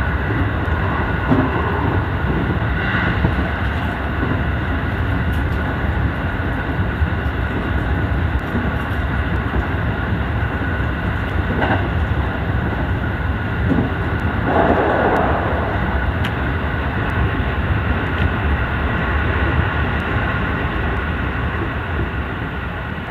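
Commuter train running on the JR Gakkentoshi (Katamachi) Line: a steady, loud rumble of wheels on rails that fades near the end.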